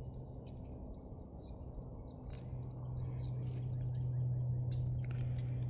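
A bird chirping, a few quick high falling chirps spaced about a second apart, over a steady low hum, with a few faint clicks.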